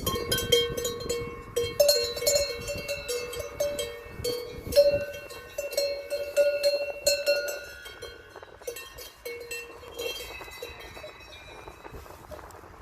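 Metal bells clanking irregularly, each clank ringing on at a steady pitch, the clanking thinning out over the last few seconds.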